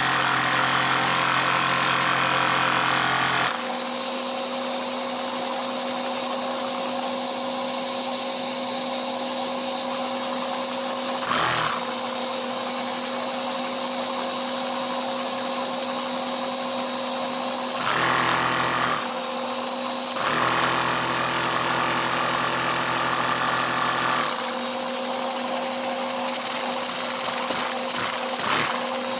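Lego vacuum engine running at speed: a steady, fast mechanical whir and rattle over a constant hum. It steps louder and quieter several times, with brief breaks about eleven seconds in and again near eighteen to twenty seconds.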